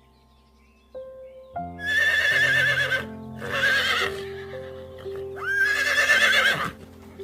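A horse whinnying three times. Each neigh is a high, wavering call about a second long, heard over background music.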